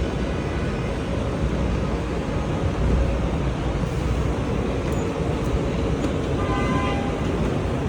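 Steady city street traffic noise with a heavy low rumble, and a short pitched sound about six and a half seconds in.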